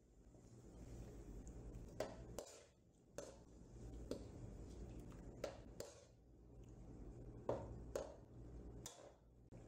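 Metal slotted spoon stirring chicken and tomatoes in a wide karahi pan, its edge knocking and scraping against the metal pan roughly once a second, over a faint low hum.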